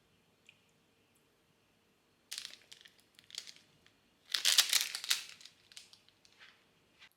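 Packaging crinkled and crumpled by hand in several short bursts, the loudest about four and a half seconds in.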